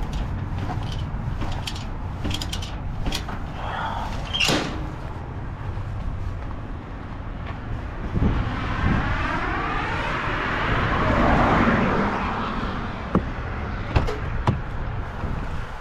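Steady low rumble of a running vehicle, with scattered clicks and knocks. Midway, a whoosh swells and fades over a few seconds, like another vehicle going past.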